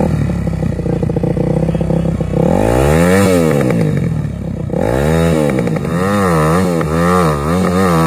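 Dirt bike engine running, then revved hard: one long rev about two and a half seconds in, then a string of quick revs, with the bike stuck in sand and sinking deeper as it is throttled.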